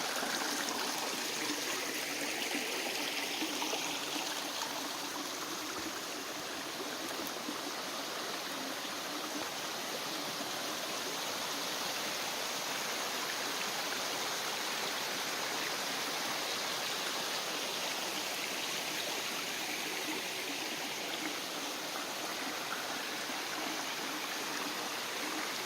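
A small rainforest stream running steadily: a continuous rush and trickle of flowing water.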